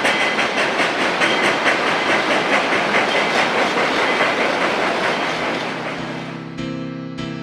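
Narrow-gauge train rolling past with a rhythmic clatter of wheels on the rails and a high squeal in the first half, fading away. Piano music comes in near the end.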